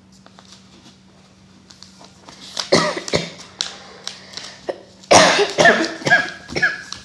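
Sheet of paper being folded and creased by hand: quiet at first, then a few short crinkling rustles near the middle and a louder run of them in the last two seconds.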